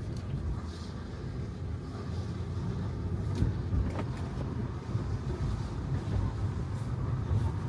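Steady low road and tyre rumble of a Tesla Model 3 driving, with no engine sound from the electric car, and a couple of faint clicks near the middle.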